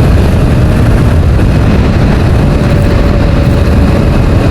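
Steady, loud rumble of wind and road noise on a motorcycle riding at speed, with a faint steady engine tone underneath.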